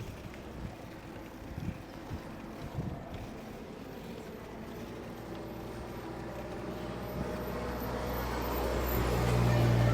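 Wind on the microphone while cycling, with a few light knocks in the first three seconds and a low steady hum that grows louder toward the end.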